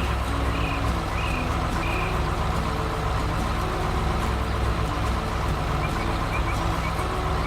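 A vehicle engine running with a steady low rumble, with a few short high chirps in the first couple of seconds.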